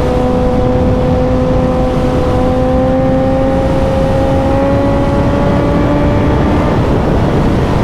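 Suzuki motorcycle engine running under steady throttle, its note climbing slowly as speed builds, then dropping away about seven seconds in, over heavy wind buffeting on the microphone.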